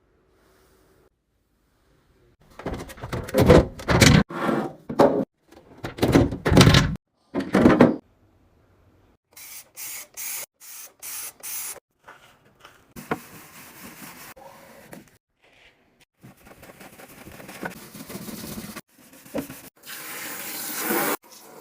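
Cleaning and restocking sounds: containers and items clattering and knocking as they are handled, a run of five short hissing bursts, then running water with splashing and rubbing.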